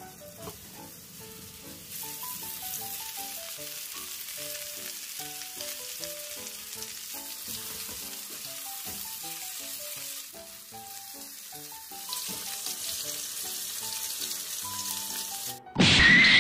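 Chicken breast frying in melted butter in a pan, a steady sizzle that starts about two seconds in, over a light background melody. Near the end a loud, short electric crackle sound effect.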